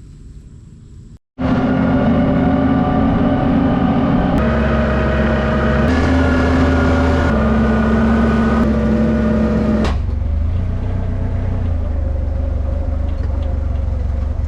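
Motor vehicle engine running steadily. It comes in abruptly about a second in, and its pitch shifts up and down in small steps a few times.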